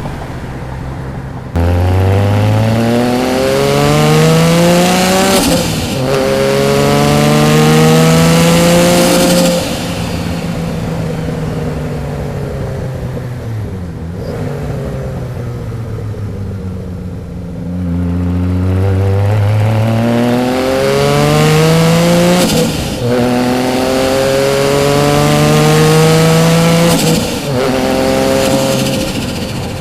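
1991 Nissan Skyline GT-R's built RB26 straight-six, turbocharged with a single Garrett GT3076, accelerating hard twice, its pitch climbing and then dropping back at each upshift. The first run starts about two seconds in and has one shift. The engine eases off in between, and the second run starts a little past halfway and has two shifts.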